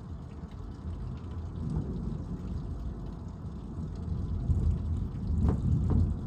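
Low rolling thunder from an electrical storm, the rumble swelling in the second half, with a couple of short ticks near the end.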